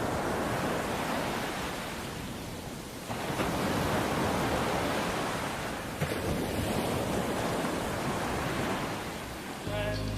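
Sea waves washing onto a shore: a steady rush of surf that swells and eases. The rush steps up abruptly about three seconds in and again around six seconds.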